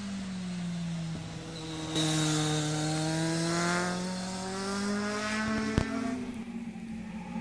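A sport motorcycle engine running through a hairpin bend. The engine note sinks in pitch as the bike slows into the corner and climbs again as it accelerates out. It gets louder about two seconds in, and there is one sharp click near the end.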